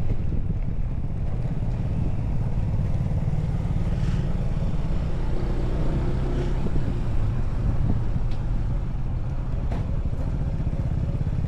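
Motorcycle engine running steadily while riding, a continuous low rumble mixed with road noise.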